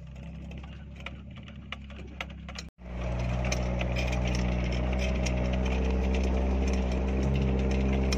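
Off-road 4x4's engine running steadily as the vehicle crawls down a steep dirt track, with scattered clicks. After a cut about three seconds in, the engine is much louder and closer, heard from a camera mounted on the vehicle's side.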